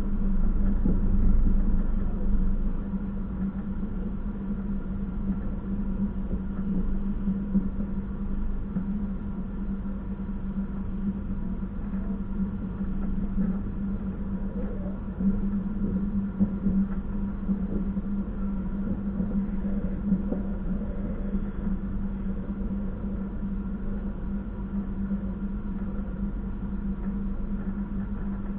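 Passenger train running, heard from aboard: a steady low rumble with a constant hum, a little louder in the first couple of seconds.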